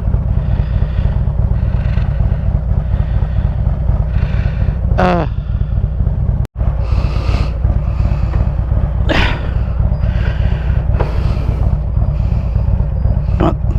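Harley-Davidson V-twin motorcycle engine idling with a steady low rumble. The sound cuts out for a split second about six and a half seconds in.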